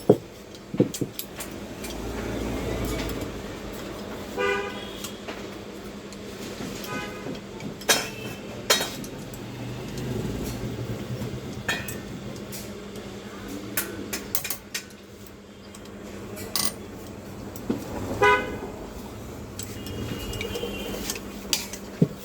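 Metal clinks and knocks from hand-work on a water pump, over a steady low hum, with short bursts of beeping tones three times.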